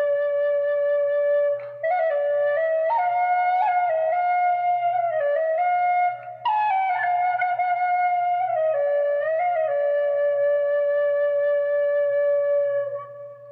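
Celtic flute playing a slow melody of long held notes, broken twice by short breaths. It ends on a long low note that fades away near the end.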